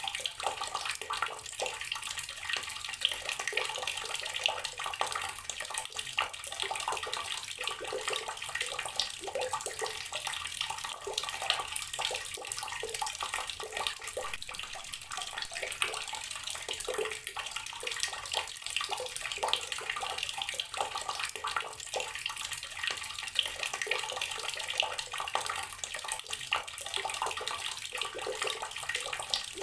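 Water tap running steadily, its stream splashing and gurgling into a basin with many small irregular splashes.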